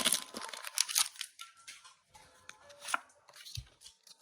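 Foil booster pack being crinkled and torn open and trading cards handled, with scattered light clicks and rustles that thin out after the first second, and a soft thump about three and a half seconds in.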